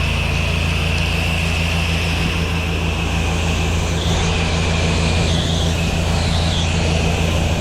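Pressure washer running: a steady engine hum under the hiss of the water spray, whose pitch shifts higher about halfway through.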